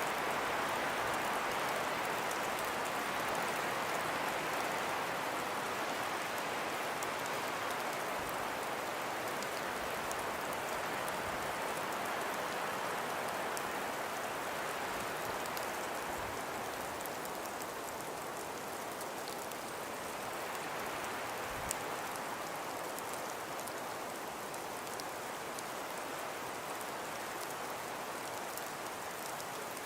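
Snowstorm wind: a steady rushing noise that eases slowly about halfway through, with a fine ticking of blown snow.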